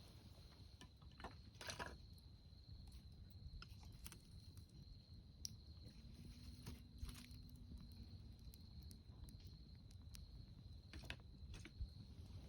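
Faint campfire crackling, with scattered sharp pops, under a steady high-pitched insect trill.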